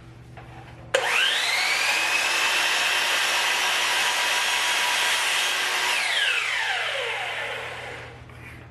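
Chop saw (miter saw) switched on about a second in, its motor whine climbing quickly to full speed, running steadily for about five seconds, then switched off, the whine falling as the blade spins down.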